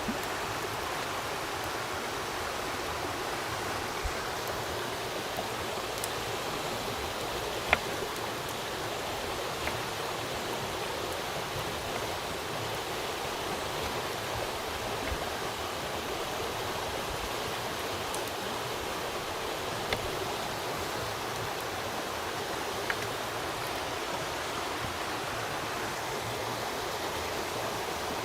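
Steady rush of running stream water. A few sharp clicks or knocks stand out above it, the loudest about a quarter of the way through.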